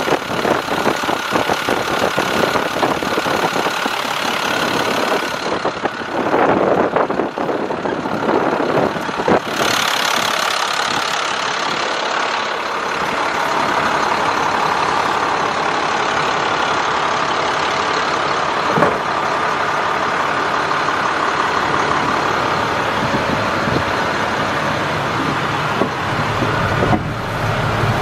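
Diesel engine of a 2005 International 4300 water truck running steadily. The sound changes for a few seconds about six seconds in.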